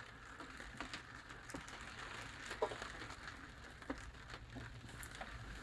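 Faint rain pattering on the roof of a 2021 Ford Bronco, heard from inside the cabin, with scattered light ticks of drops.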